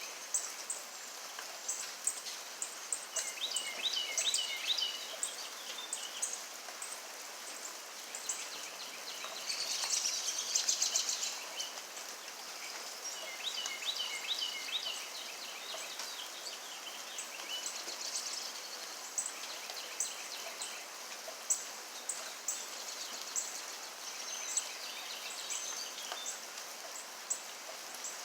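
Steady rain falling, with birds chirping on and off through it and a brief buzzy trill about ten seconds in.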